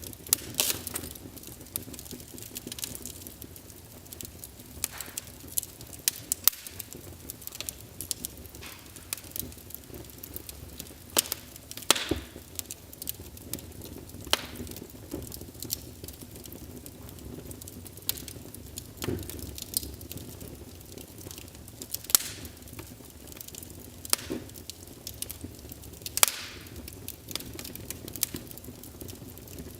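Wood fire in a fireplace crackling, with irregular sharp pops every second or so over a low, steady hiss and rumble of burning.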